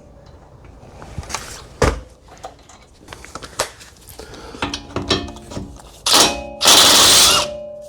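Clinks and knocks of hand tools and sockets on metal, then an impact wrench hammering in two loud bursts near the end as a suspension or axle nut is spun off.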